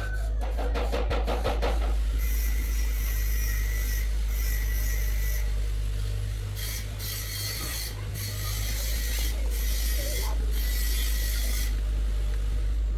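A steady low machine hum with repeated rasping, like a tool working against a part, coming in three stretches of a few seconds each. It starts with a few sharp clicks.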